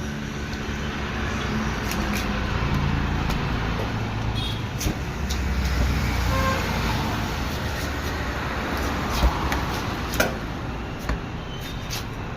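Steady street traffic noise with a low engine hum, broken by a few sharp knocks near the end.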